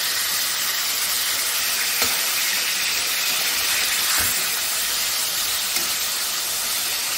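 Canned pineapple rings sizzling steadily in hot ghee in an aluminium kadai as their sugar begins to caramelize, with two light clicks of a slotted metal spoon against the pan, about two and four seconds in.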